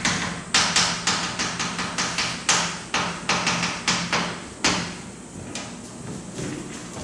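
Writing being done by hand: a quick run of sharp tapping strokes, three or four a second, that thins out after about five seconds.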